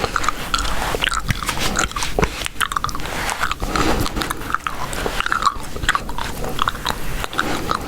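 Gum being chewed close to the microphone: rapid wet smacks and clicks, several a second.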